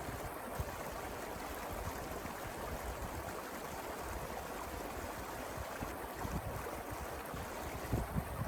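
Mountain river flowing: a steady rush of water, with a few brief low thumps near the end.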